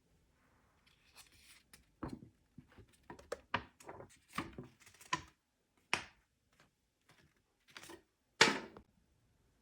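Hands handling packaging and parts: an irregular run of knocks, clicks, short scrapes and rustles, the loudest a longer scraping rustle near the end.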